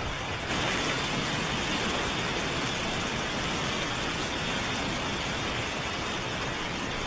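Steady rushing noise with no distinct events, getting a little louder about half a second in.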